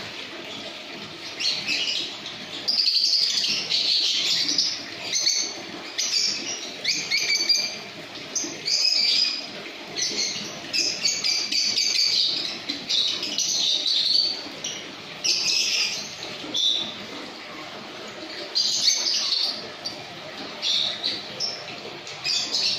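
A colony of lovebirds chattering in shrill, rapid bursts of a second or two each, one after another, with short gaps: the long 'ngekek' song that lovebird keepers breed for.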